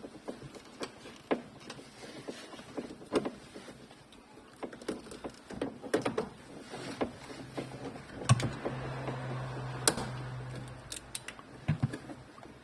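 Scattered clicks and knocks of parts being handled, with a small electric motor running steadily for about three and a half seconds in the middle.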